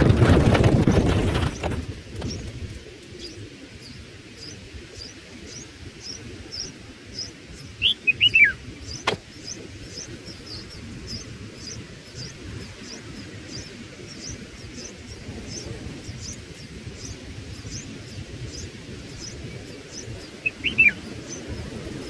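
Small birds chirping: a thin high chirp repeating about twice a second, with two short falling calls, one a third of the way in and one near the end. A low rumbling noise fills the first couple of seconds, and there is a single sharp click shortly after the first call.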